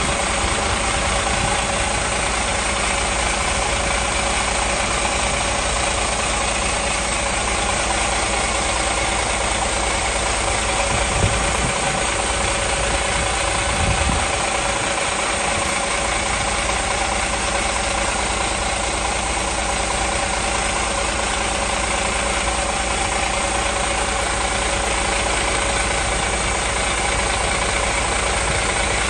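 Mercedes-Benz Tourismo coach's diesel engine idling steadily, with two brief low bumps in the sound about eleven and fourteen seconds in.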